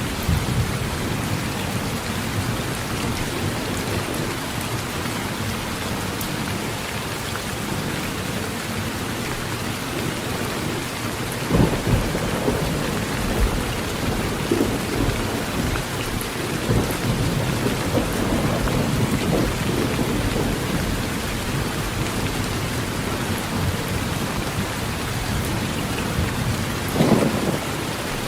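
Heavy rain falling steadily on a metal roof, with thunder rumbling low underneath. Louder thunder swells come about twelve seconds in and again near the end.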